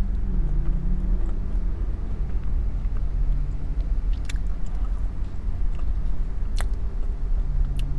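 Chewing and small mouth sounds of someone eating fried chicken pancake tacos, with a few sharp clicks and a hummed 'mmm' near the start, over a low steady rumble of the car's cabin.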